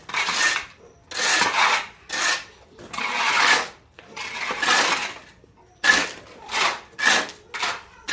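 Repeated rough scraping strokes, about nine of them, longer at first and then shorter and quicker near the end.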